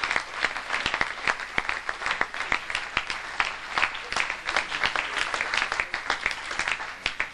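Live audience applauding: many hands clapping together, thinning and fading out near the end.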